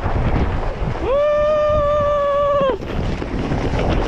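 Wind buffeting the microphone in a steady rumble. About a second in, a person gives one long, held yell on a steady pitch that cuts off sharply after nearly two seconds.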